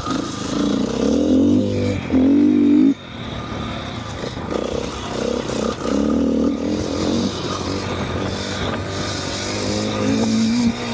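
KTM 450 dirt bike's single-cylinder four-stroke engine revving up and down under riding, with the throttle shut off sharply about three seconds in.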